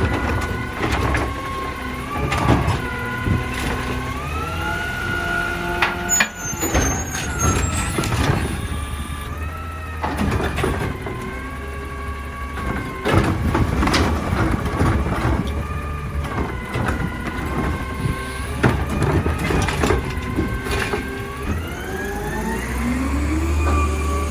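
Garbage truck with a Heil Durapack Rapid Rail automated side-loader body, its engine running and its pitched whine repeatedly rising and falling as the truck works. Scattered bangs and knocks come in between, and the pitch climbs near the end.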